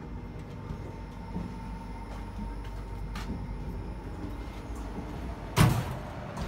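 Train running with a steady low rumble, a faint thin tone above it. A single loud, sudden thump comes near the end.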